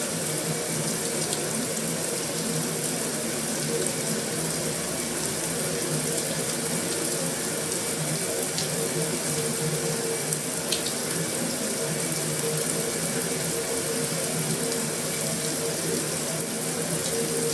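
Heavy rain falling steadily on a metal roof: an even hiss with a few sharper drop ticks now and then.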